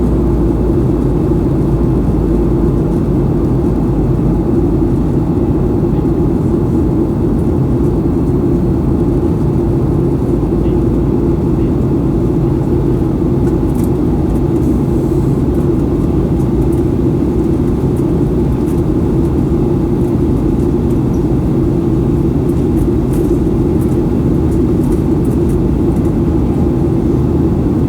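Steady noise inside the cabin of a Boeing 737-800: its CFM56-7B jet engines at high power and the rush of air around the fuselage, heard from a window seat during the takeoff climb.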